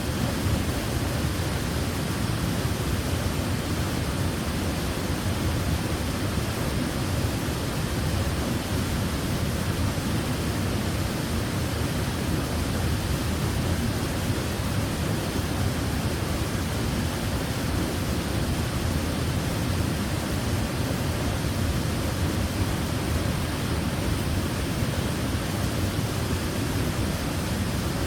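Waterfall rushing steadily: an unbroken noise of falling water, strongest in the low end.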